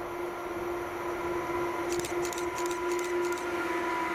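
Freight train hauled by several electric locomotives approaching and passing close, a steady hum from the locomotives growing louder. A run of sharp clicks comes in about halfway through.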